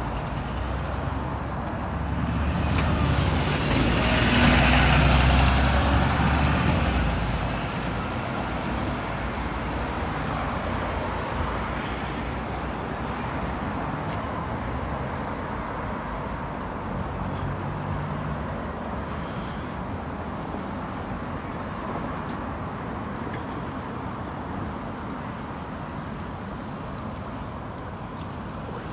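Road traffic: a vehicle passes close, swelling to its loudest about four to six seconds in and fading away, then steady traffic noise carries on, with a brief high chirp near the end.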